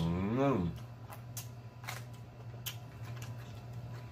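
A person chewing a mouthful of food with wet mouth clicks and smacks, opening with a short hummed "mmm" of enjoyment that dips and rises in pitch. A steady low hum lies underneath.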